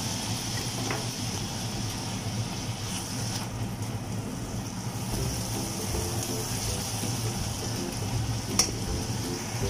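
Minced pork frying in hot oil in a pan, a steady sizzle, stirred with a spatula that knocks against the pan about a second in and again more sharply near the end.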